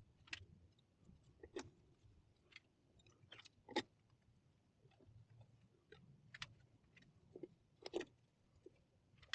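Faint, irregular clicks and light knocks, about eight in all, with the loudest just before the middle and near the end: small engine parts and tools being handled during assembly.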